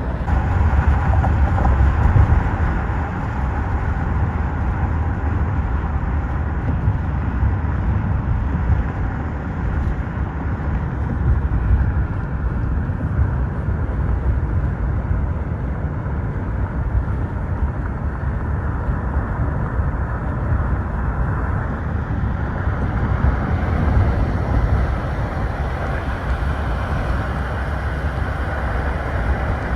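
Long Island Rail Road commuter train in motion: a steady low rumble of wheels and running gear on the track.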